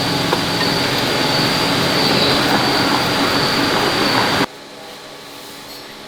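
Farm vehicle's engine running steadily and loudly, then dropping suddenly about four and a half seconds in to a much quieter steady hum.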